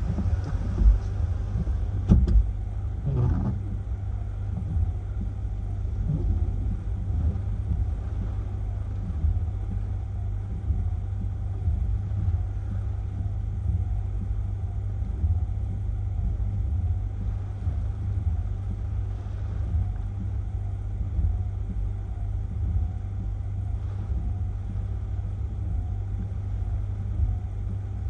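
Strong hurricane wind buffeting the microphone: a steady low rumble with a few harder gusts in the first few seconds.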